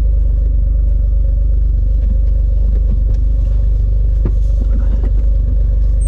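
Autozam AZ-1's mid-mounted 657 cc turbocharged three-cylinder engine idling steadily, heard from inside the cabin. A few light clicks and knocks come about four seconds in.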